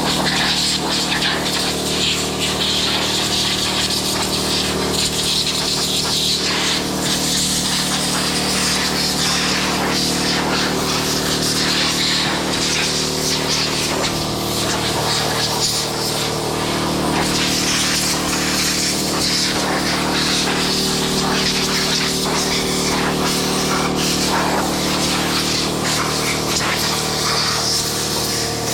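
Motor running with a steady hum under a continuous hiss of blowing air, as dirt is blown off a muddy RC truck.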